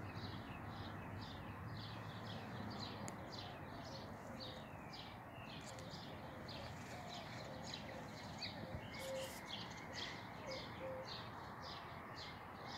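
Birds chirping repeatedly, about two to three short high chirps a second, over a steady background hiss.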